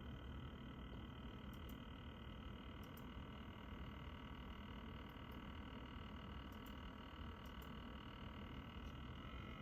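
NZXT Kraken Z73 AIO liquid-cooler pump buzzing steadily, several high whining tones over a low hum. The owner finds the buzz unbearable and takes it for a fault worth a replacement from NZXT.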